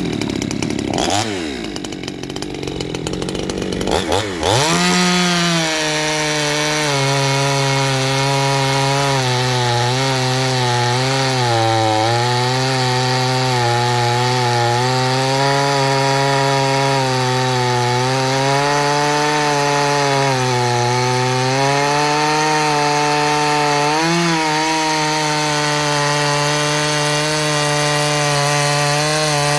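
58cc Chinese two-stroke chainsaw cutting wood. After about four seconds of clatter, the engine settles into a steady cutting note whose pitch dips and recovers as the bar is dug in. It holds moderate revs under load rather than bogging down, which the owner puts down to torque from its restrictive muffler.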